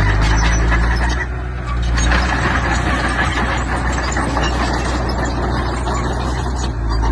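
Diesel engine of heavy earth-moving machinery running steadily under a broad mechanical noise, with a short dip in loudness about a second in.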